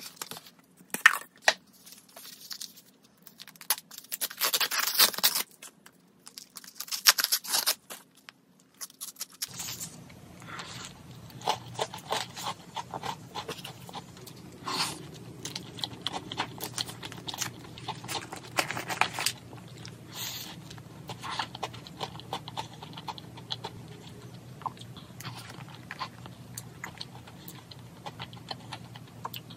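Wrapping crinkled and handled in several loud bursts for the first nine seconds or so. Then, after a cut, chewing and crunching of a dessert crepe with many small crisp clicks over a steady low hum.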